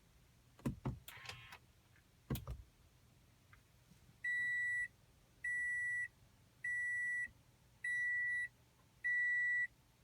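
A 2015 Toyota Camry's warning buzzer sounding five times on an attempt to start the engine: steady high beeps of about half a second each, one a little over every second. A few knocks and a short rattle come first, in the first two and a half seconds.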